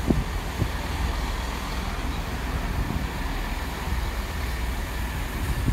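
Great Western Railway Intercity Express Train pulling out along the far platform, a steady rumble of the train running.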